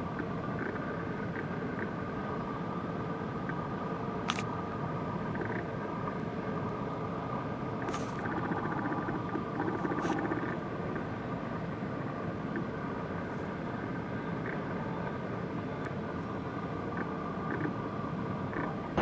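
Steady hum of vehicle engines, with a few faint clicks.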